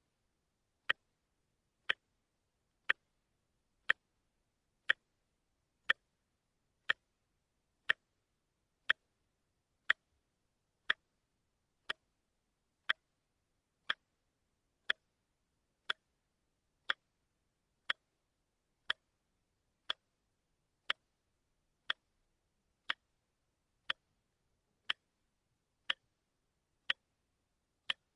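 Watch ticking, one sharp tick about every second, steady and even.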